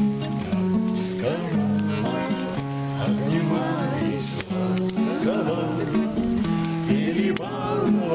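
Acoustic guitar strummed, its low notes changing every half second or so, with voices over it.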